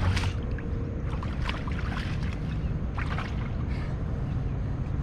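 Kayak handling sounds: scattered short knocks and splashes on and around a kayak over a steady low background rumble.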